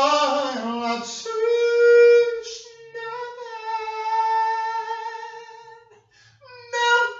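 A single voice singing long, held high notes without clear words, each note sustained for one to three seconds with short breaks between.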